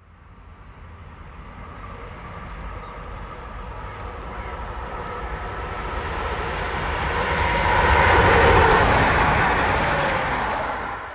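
Train approaching and passing, a rushing of wheels on rails with a faint whine, growing louder to its loudest about eight seconds in and easing a little after.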